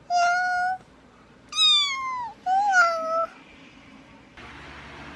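Domestic cat meowing three times, each call under a second long; the second falls in pitch and the third rises then falls. A faint steady hiss follows near the end.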